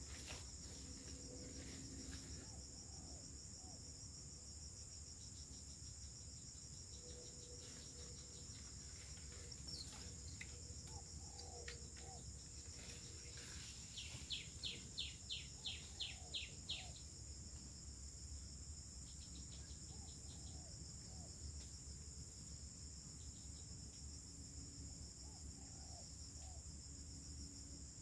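Steady high-pitched chorus of insects, with faint low bird calls in short groups of two or three every few seconds and, about halfway, a quick run of about ten sharp bird notes.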